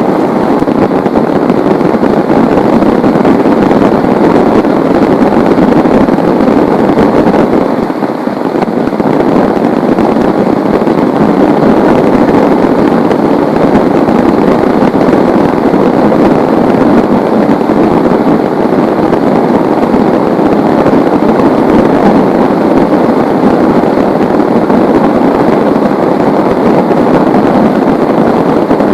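Heavy rain pouring down steadily in a loud, even hiss, easing slightly for a moment about eight seconds in.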